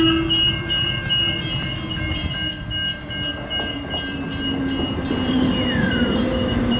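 A train passing through a level crossing while the crossing's warning bells ring in rapid, evenly spaced dings. The train's steady running tone falls slowly in pitch, and a brief falling squeal sounds near the end.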